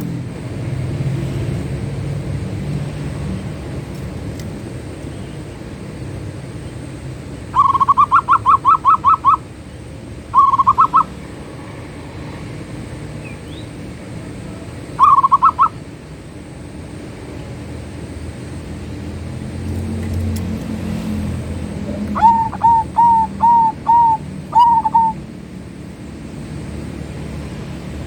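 Zebra dove (perkutut) singing: short bursts of rapid staccato cooing notes, then near the end a slower run of about six coos. A steady low rumble runs underneath.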